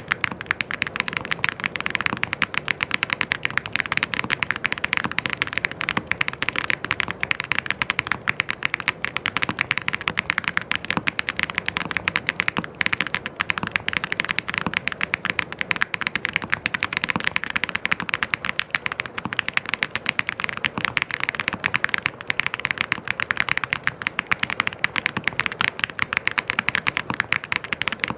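Fast, continuous typing on a mechanical keyboard: a dense, even stream of key clicks and clacks.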